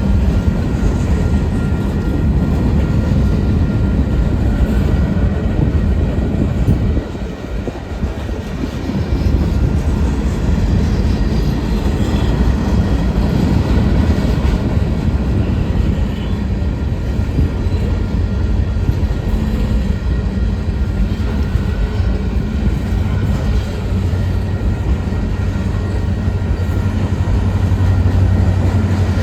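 Union Pacific mixed freight train rolling past: a steady rumble of freight cars and wheels on the rails. A low steady hum grows louder near the end.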